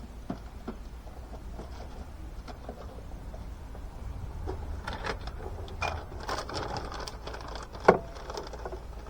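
Small clicks, taps and rustles of parts and tools being handled, with one sharp knock near the end.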